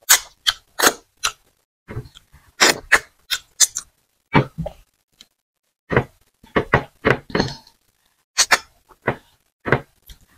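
Close-miked wet mouth sounds of eating by hand: chewing, lip smacking and finger sucking, heard as irregular short, sharp smacks with silent gaps between them.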